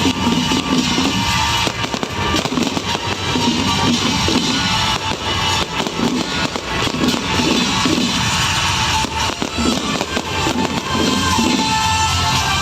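Loud music with a steady beat playing over a continuous crackle of fireworks.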